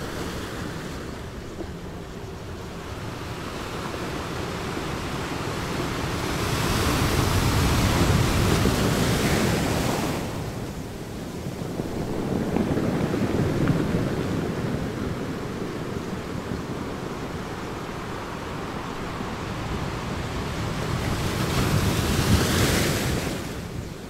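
Ocean surf: waves rushing in and washing back in slow swells, loudest about a third of the way in and again near the end.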